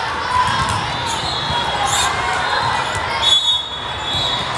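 Volleyballs thumping and bouncing on a gym floor, with background chatter from the crowd echoing around the large hall.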